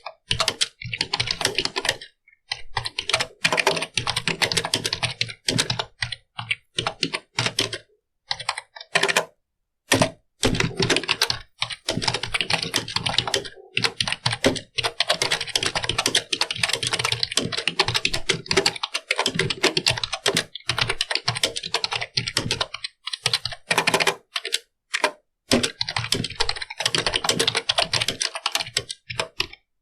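Computer keyboard being typed on steadily, a fast run of key clicks broken by brief pauses between bursts of typing.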